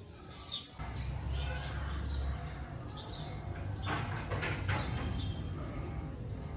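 A small bird chirping over and over, short falling chirps about two a second, over a low rumbling noise that comes in about a second in, with a few sharp clicks around the middle.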